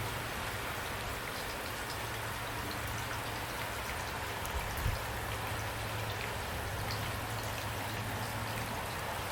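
Steady rain falling, with individual drops heard as faint ticks over the even hiss. A steady low rumble runs underneath, and a single brief low thump comes about five seconds in.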